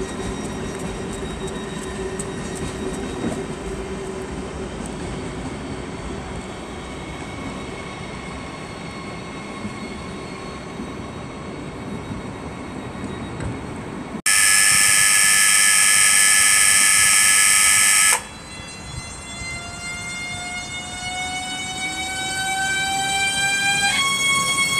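Electric trains in a station: steady rumbling of rolling stock, then a loud, steady electronic warning tone that cuts in about halfway and stops abruptly some four seconds later. After it comes a rising whine from an electric train's traction motors as it accelerates, which jumps to a steadier whine near the end.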